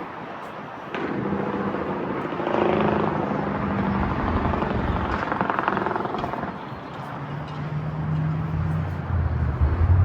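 Heavy diesel truck engine, the Freightliner M2's Cummins L9, running. It gets louder about a second in, swells over the next few seconds, eases off around seven seconds, and picks up again near the end.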